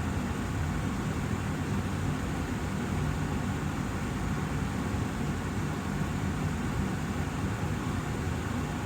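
Austin Air HealthMate air purifier's fan running steadily: an even rush of air with a low hum.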